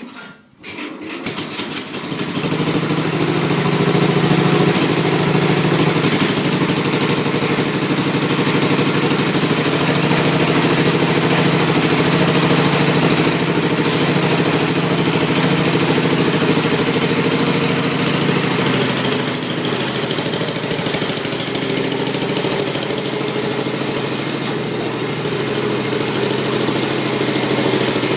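Tecumseh engine on a Sears tractor cold-starting: it catches within about two seconds and settles into a steady run.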